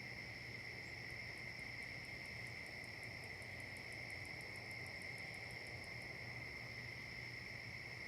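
Steady insect chorus holding two high pitches, with a second, higher insect call ticking about six times a second from about a second in until about six seconds in.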